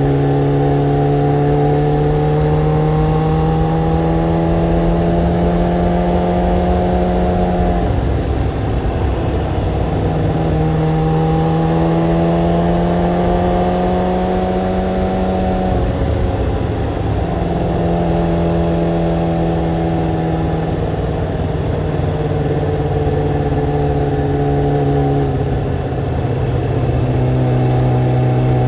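Motorcycle engine pulling under way. Its pitch climbs slowly and then drops three times as the rider shifts up through the gears, over a steady rumble of wind on the microphone.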